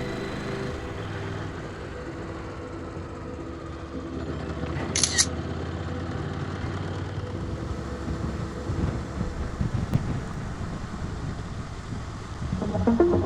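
Motorcycle running along a road at steady speed, with a short double high-pitched chirp about five seconds in.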